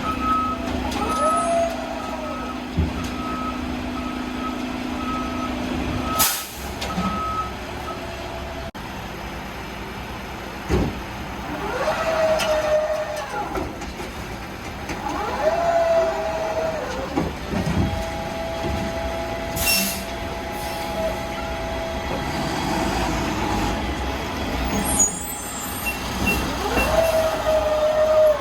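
Boivin Evolution garbage truck with a non-hydraulic Heil RevAmp automated arm working bins: the diesel engine runs steadily while the reversing beeper sounds for the first eight seconds or so. Several times the arm's drive whines up and back down in pitch as it cycles, with a couple of sharp air-brake hisses in between.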